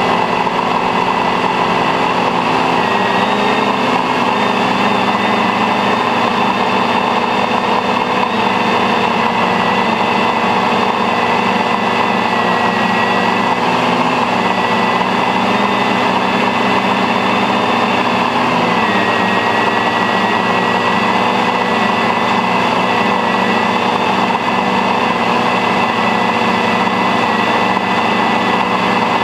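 Octocopter's eight electric motors and propellers whining steadily in flight, heard from on board the frame. The pitch steps up or down a few times as the throttle changes.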